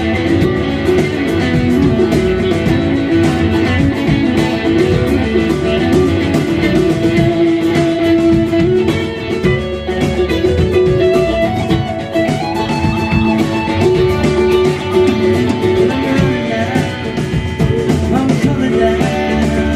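Live band music: a rock song played on guitars with a full band behind them.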